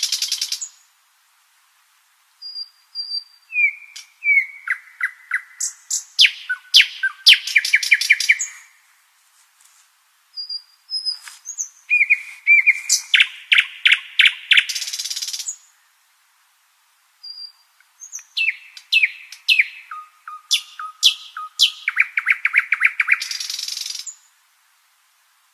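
Nightingale singing: three long song phrases of whistled notes, rapid repeated notes and buzzy trills, separated by short silences.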